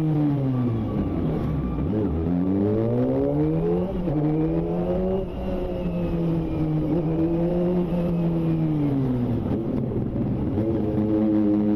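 Kawasaki ZX-25R's 249 cc inline-four through a Yoshimura Alpha exhaust under way. The revs fall off, then climb and drop sharply at an upshift about four seconds in. They hold steady for a few seconds and fall off again about nine seconds in before levelling out.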